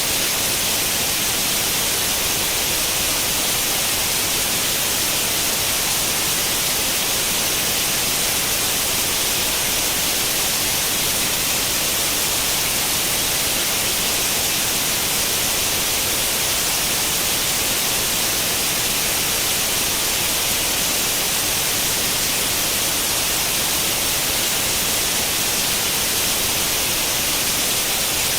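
Steady TV static hiss: the white noise of an old tube television tuned to no channel, strongest in the high treble and unchanging in level.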